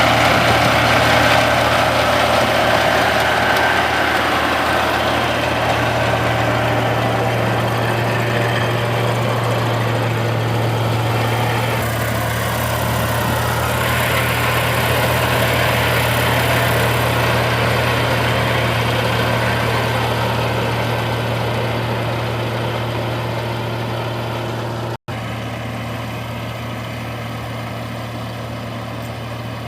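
Rice harvester's diesel engine running steadily with a constant low hum, slowly getting quieter. It cuts out for an instant about 25 seconds in.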